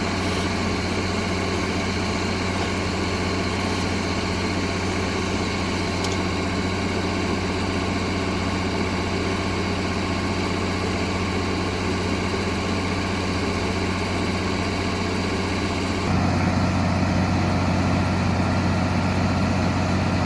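A steady engine drone with a strong low hum, stepping up a little louder and lower-toned about sixteen seconds in.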